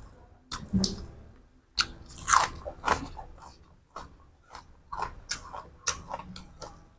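A person biting and chewing crunchy food: a run of sharp, irregular crunches, the loudest about two and a half seconds in.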